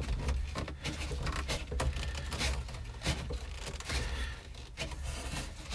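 Flexible HVAC duct hose being worked onto a plastic vent fitting: irregular scraping, rubbing and small knocks of hose and old plastic under the hands.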